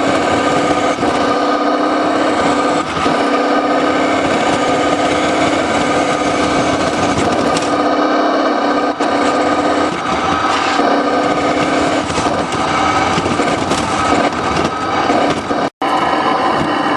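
RC car's motor running steadily with a continuous whine, heard from a camera mounted on the car, with scattered rattling knocks as it drives. The sound cuts out for an instant near the end.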